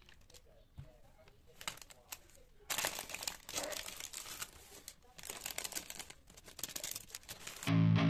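Packaging crinkling and rustling: faint scattered clicks at first, then about three seconds in a loud, dense crackling that runs on until music starts just before the end.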